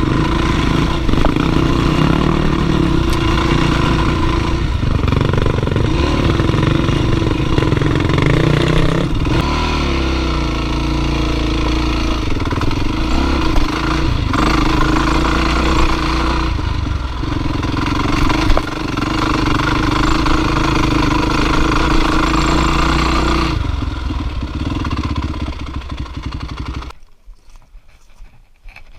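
Dirt bike engine running hard, its revs rising and falling, then dropping away sharply near the end.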